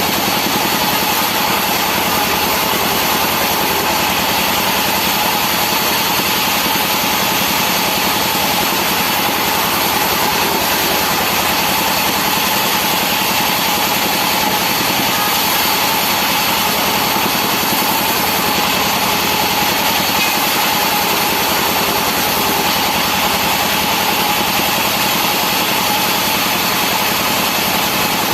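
Sawmill machinery running steadily: an engine-driven saw with a constant hum and one steady tone, no change in pitch or level.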